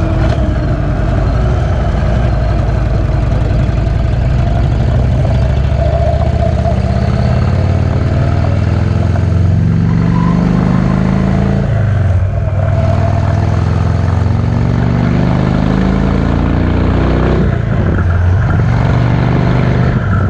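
Cruiser motorcycle's V-twin engine running on the road. Its note dips and climbs again twice, about twelve seconds in and again near the end.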